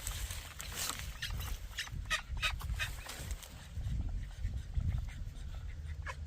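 Penned ducks and other fowl making many short, scattered calls, with wind rumbling on the microphone.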